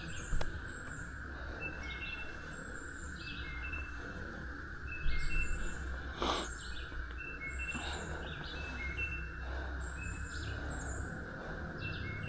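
Songbirds singing short, high, repeated phrases every second or two over a steady low hum. A few short knocks stand out, the loudest about five seconds in.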